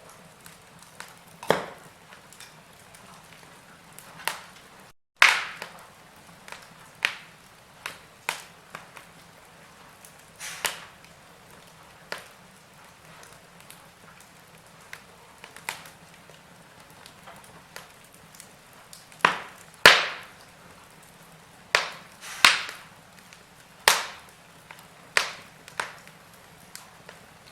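Wood fire crackling: sharp, irregular pops and snaps, some single and some in quick pairs, over a faint steady hiss, with the loudest pops coming in the second half.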